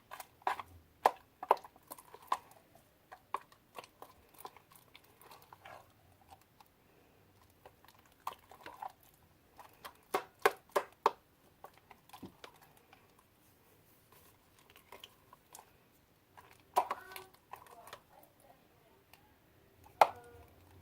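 Slime being stirred in a bowl as the detergent activator takes hold: irregular sticky clicks, pops and squelches in bunches, with quieter gaps between.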